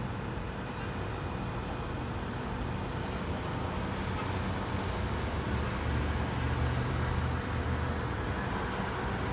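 Steady low rumble of road traffic, swelling louder for a couple of seconds past the middle.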